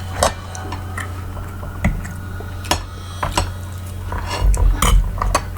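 Cutlery clinking against a plate and dishes: a string of separate sharp clicks and knocks, with a cluster of louder knocks near the end, over a steady low hum.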